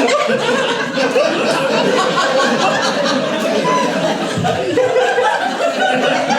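Audience laughing and chuckling continuously, many voices together in a large hall.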